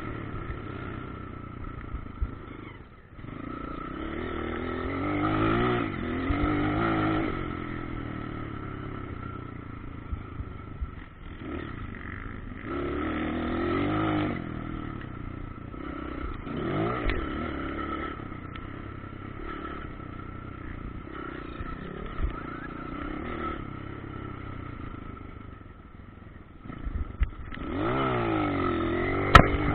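Motocross bikes' engines revving up and down, growing louder in several swells and fading between them, over a steady high tone.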